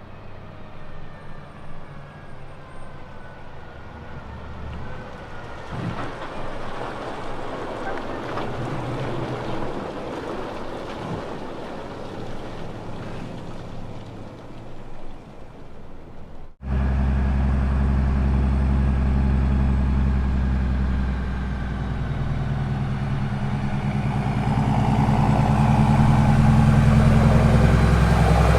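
Heavy diesel road-train trucks: first a truck's engine and tyres swelling as it goes by and then fading. After an abrupt cut, a prime mover's diesel engine runs close by, loud and low, and grows louder near the end.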